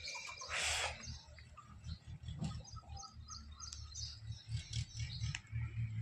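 Small birds chirping repeatedly in short high notes, with one short harsh bird call about half a second in, over a low rumble.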